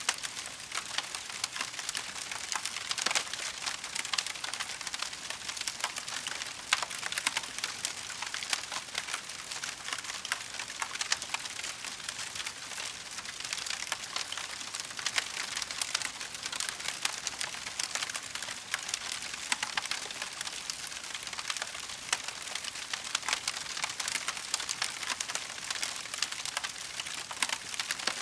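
Wood fire crackling steadily, a constant hiss dense with small sharp pops and snaps, a few louder ones standing out now and then.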